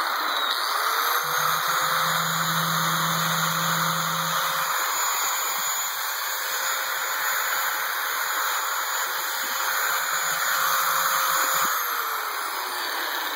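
DeWalt angle grinder running free with no load, held on by its lock-on switch: the motor spins up about a second in, runs at a steady whine with loud air rush, then winds down near the end.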